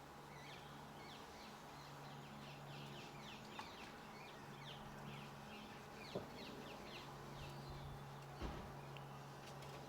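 Small garden birds chirping and twittering: many short, high, quick chirps in a fast run, over a faint steady low hum. A few soft knocks break in, the loudest about six seconds in.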